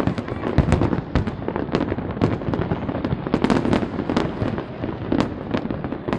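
Large aerial fireworks display: rapid, overlapping bangs and crackles of bursting shells, several a second, over a continuous rumble.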